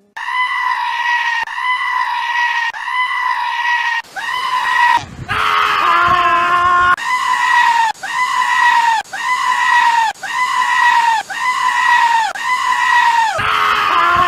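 A goat screaming over and over: about a dozen loud, high, even-pitched calls of about a second each, following one another almost without a break. A lower-pitched call breaks in about five seconds in.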